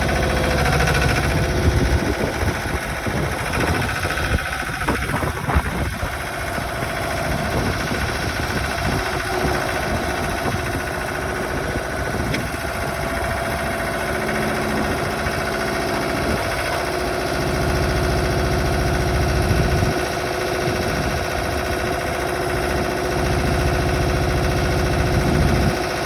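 Allatt AllPaver SP-500 asphalt paver's engine running steadily at idle, with a rougher, knocking stretch a few seconds in before it settles.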